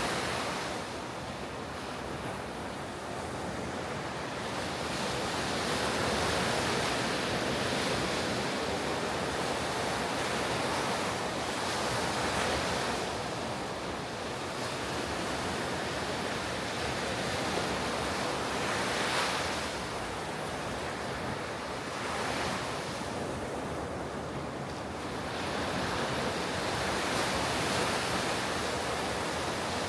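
Ocean waves breaking on a beach, a continuous surf wash that swells and subsides every few seconds as each wave comes in.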